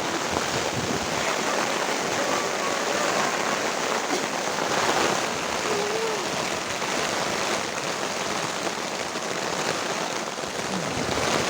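Heavy rain falling in a storm wind, a steady loud hiss of rain and gusting air.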